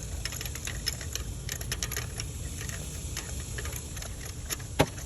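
Light metallic clicks and ticks from a spark plug socket and extension being turned by hand to thread a new spark plug into a 2009 Mercury Sable's cylinder head. The clicks come in a scattered run, with one sharper click near the end, over a steady low hum.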